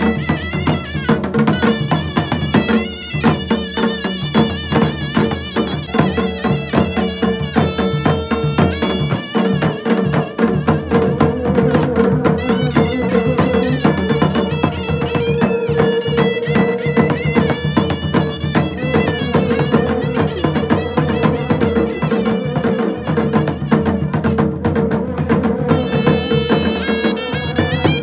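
Pahari Nati folk music: fast, dense drumming under an ornamented melody over a steady drone.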